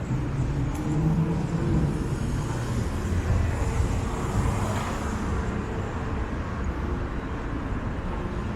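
City street traffic: vehicle engines running steadily, with a vehicle passing about four to five seconds in.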